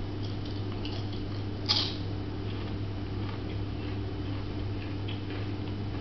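A potato chip being chewed: a few faint crunches, one louder about two seconds in, over a steady low hum.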